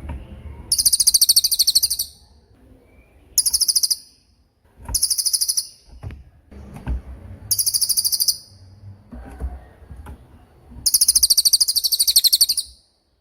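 Cililin bird singing its 'tembakan' song: five short bursts of very high, rapid, machine-gun-like trilled notes, with pauses of one to two seconds between them.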